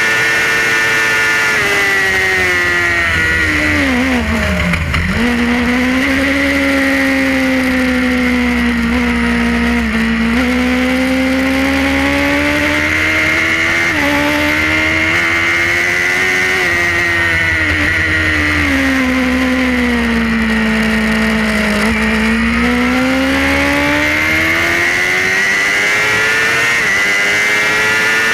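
Suzuki GSX-R racing motorcycle's inline-four engine heard from onboard at race pace. The engine note drops steeply about four to five seconds in, then climbs through the gears with a brief dip near ten seconds, sags again later and rises once more, over a low rumble.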